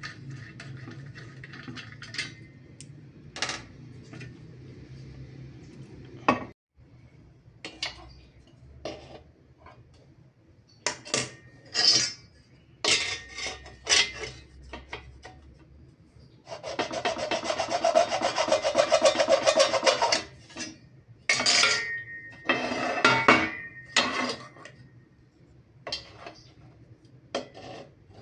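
Hand tools at work: scattered knocks and clinks, and in the second half a steady rasping lasting about three and a half seconds, like a file or saw being worked.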